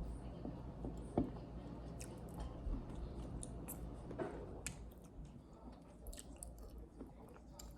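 A person chewing food close to the microphone, with wet mouth sounds and scattered small clicks, a sharper one about a second in.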